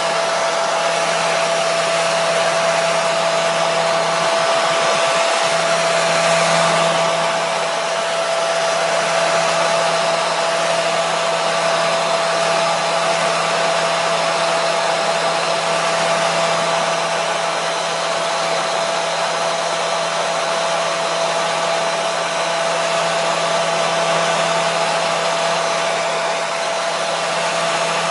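Hair dryer running continuously: a steady rush of air with a constant whine and a low motor hum.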